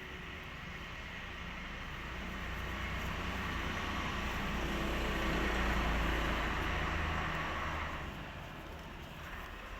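A vehicle passing by: a low rumble that swells, peaks about six seconds in and fades away by about eight seconds.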